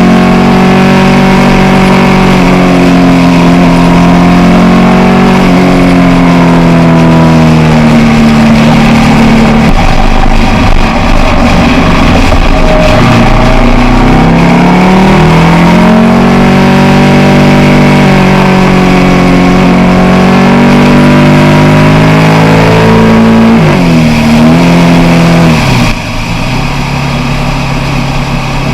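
Motorcycle engine under way, its pitch climbing and dropping as the revs rise and fall through the gears, over steady wind and road noise. Near the end the revs fall off sharply and it gets quieter.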